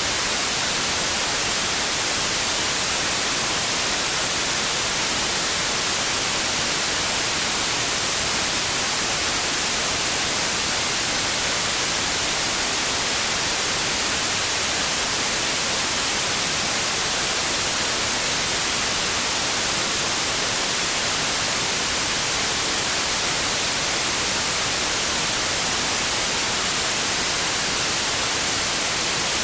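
Steady white noise: an even, unbroken hiss with no change in level, brightest in the high frequencies.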